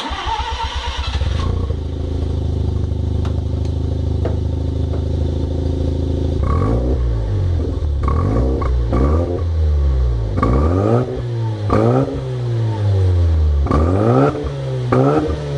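Mazda RX-7's 12A turbo two-rotor rotary engine heard through its exhaust, idling steadily for about six seconds, then blipped with short throttle revs about seven times, each rev rising and falling quickly.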